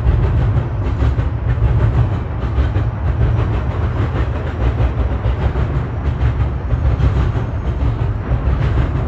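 Double-stack intermodal well cars loaded with containers rolling past: a loud, steady low rumble of steel wheels on rail with a light irregular clatter.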